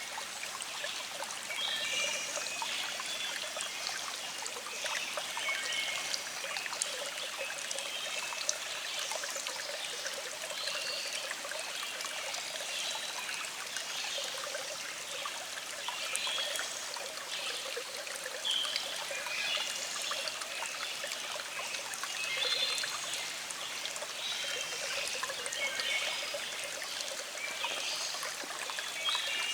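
A small stream flowing with a steady trickling and splashing.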